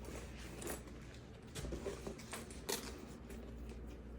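A few light clicks and rustles of something being handled, scattered over a low steady hum, with the sharpest click near the end.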